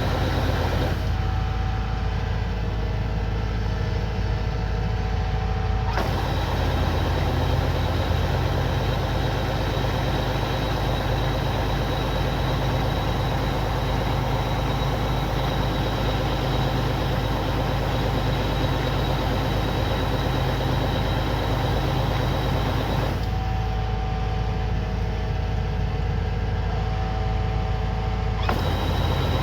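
Kubota DC105X combine harvester's diesel engine running steadily under load while it works. The tone changes abruptly a few times, turning duller with a steady hum from about 1 to 6 seconds and again from about 23 to 28 seconds.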